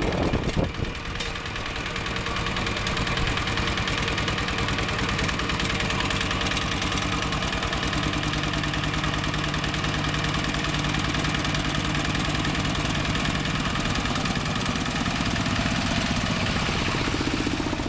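Two-wheel walking tractor's single-cylinder diesel engine running steadily, with a rapid, even chugging, as it pulls a passenger trailer along.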